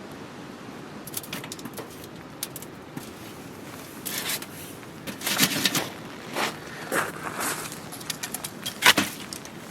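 Irregular rustling, clinks and knocks of camping gear being handled while a tent is set up, over a steady background hiss. One sharp knock near the end is the loudest.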